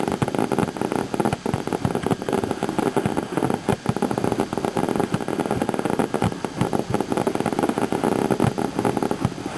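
Fireworks going off in a rapid, continuous barrage of crackles and bangs over a steady rumbling haze.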